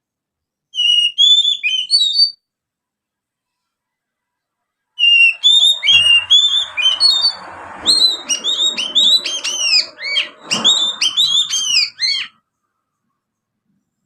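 Young oriental magpie-robin (kacer) giving its rapid chattering 'ngriwik' song, studded with house-sparrow-style chirps that it mimics. It comes in two bursts of quick, sharp, high chirps: a short one about a second in, then a longer, denser run from about five seconds in until near the end.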